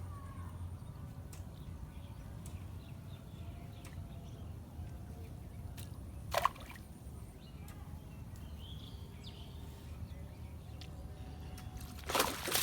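Water sloshing and dripping around a cast net being hauled in, over a steady low rumble. There is a sharp sound about six seconds in and a louder rush near the end.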